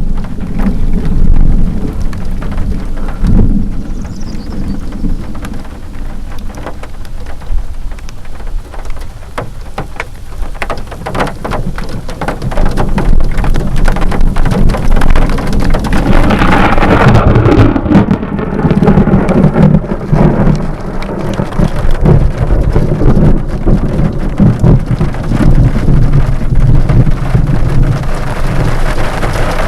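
Heavy rain falling hard, with thunder rumbling throughout; a little past halfway a louder, closer roll of thunder breaks in and rumbles on to the end.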